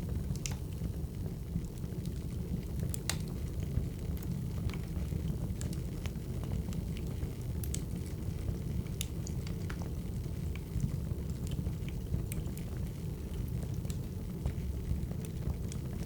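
Crackling wood fire: a steady low rumble of burning logs with irregular sharp pops and snaps.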